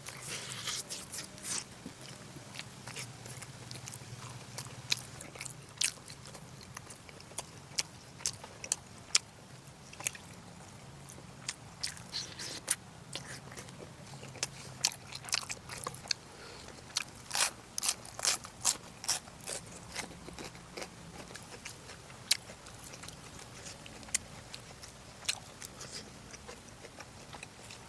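A person eating close to the microphone: irregular wet smacks and clicks of chewing, with no steady rhythm.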